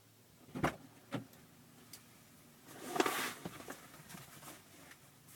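Two sharp knocks about half a second apart, then a brief rustling scrape and a few small clicks inside a car.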